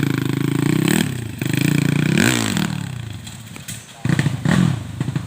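Honda XRM underbone motorcycle's single-cylinder four-stroke engine running hard and revving, its pitch sweeping up and down about a second in and again a little after two seconds. It eases off lower and quieter around three seconds, then picks up loud again about four seconds in.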